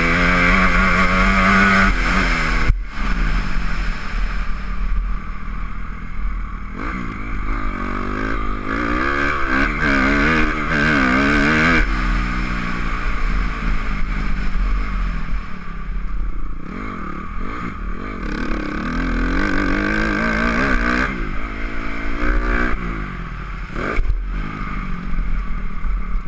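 Honda CRF250R dirt bike's single-cylinder four-stroke engine revving hard and easing off over and over as it is ridden round a motocross track, its pitch rising and falling with the throttle and gear changes. A sharp knock comes about three seconds in.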